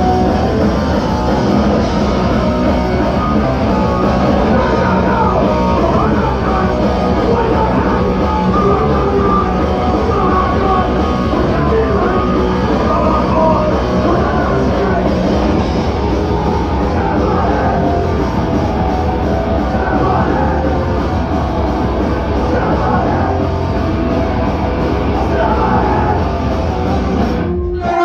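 Hardcore punk band playing live: loud distorted guitars, bass and drums with singing. It cuts off abruptly near the end.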